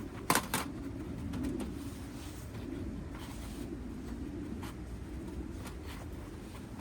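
Two sharp knocks just after the start, then a few lighter clicks and taps over a steady low background.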